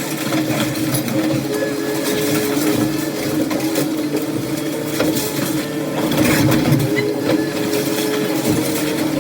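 Heavy machinery engine running steadily, with scattered knocks over the top.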